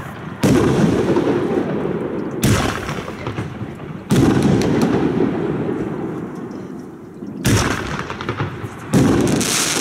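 Aerial fireworks bursting: five loud bangs, irregularly spaced, each trailing off in a long, slowly fading low rumble.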